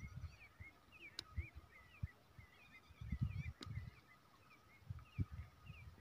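Small birds chirping over and over in the background, with a faint steady high hum beneath them. Low, irregular rumbling bumps come and go, loudest about halfway through, and there are two sharp ticks.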